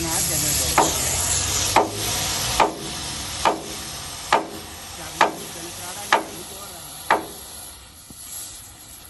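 Eight sharp knocks, evenly spaced a little under a second apart, over a hiss that fades away.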